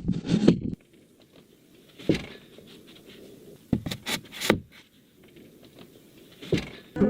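Hand work on timber roof beams: a short scraping burst at the start, then separate sharp wooden knocks, one about two seconds in, a quick cluster of three or four near the middle, and one more near the end.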